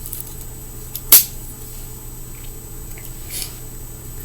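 Small knife trimming fingerboard grip tape, with a sharp click about a second in and a short scrape a couple of seconds later.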